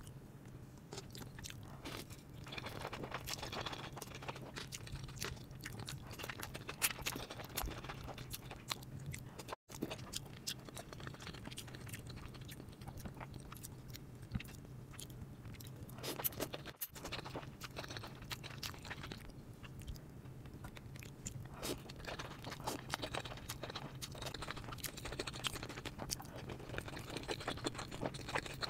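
Close-miked eating: moist chewing and crunching, with many irregular sharp clicks of bites and mouth sounds. The sound drops out briefly about ten seconds in.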